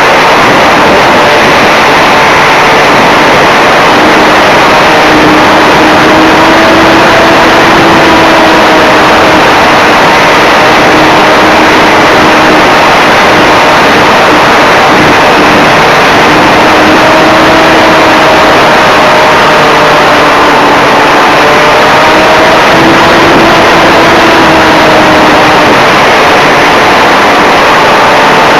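Brushless electric motor and propeller of a radio-controlled Cessna 182 model in flight, heard from a camera on board: loud, steady wind rush over a propeller hum whose pitch drifts gently up and down with the throttle.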